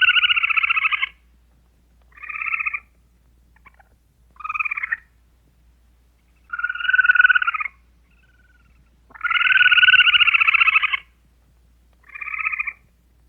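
An animal calling in a series of six rattling, trilling calls of about half a second to two seconds each, with short silences between; the longest are at the start and about two-thirds of the way through.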